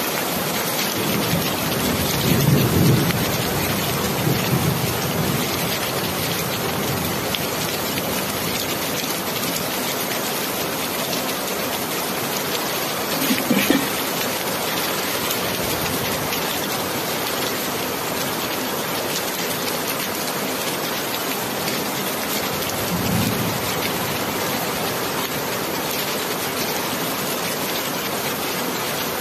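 Steady rain, an even hiss, with a few low rumbles: one lasting a few seconds near the start, a short one about halfway through, and a fainter one near the end.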